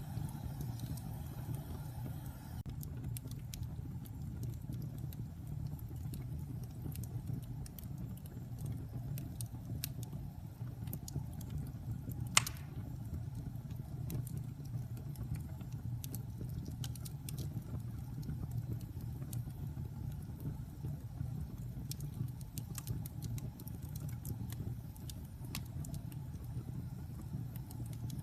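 Wood fire burning in a fireplace: a steady low rumble with scattered small crackles, and one loud sharp pop about halfway through.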